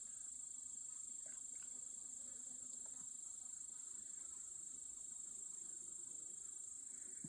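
Steady high-pitched insect chirring, with a faint low hum of honeybees from the open hive.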